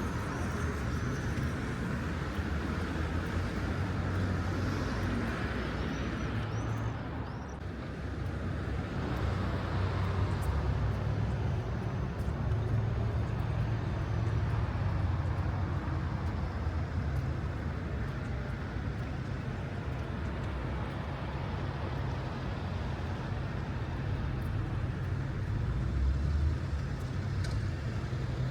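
City street traffic: a steady rumble of cars and buses passing, with no single event standing out.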